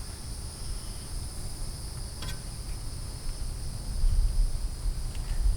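Steady high-pitched insect chirring, with a low rumble that grows louder from about four seconds in and a single faint click about two seconds in.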